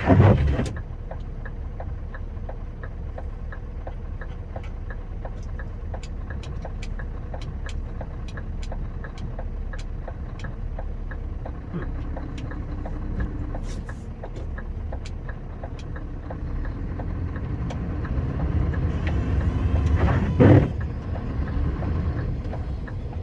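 Scania R560 truck's V8 diesel engine running steadily, heard from inside the cab, with a fast, even ticking over it. Two brief loud sounds cut through: one at the start and one about twenty seconds in.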